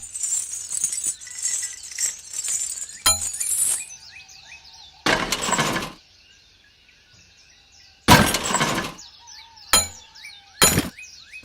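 A string of sudden crashes and clinks, some of them short sharp strikes and some about a second long, with birds chirping faintly in the gaps between them.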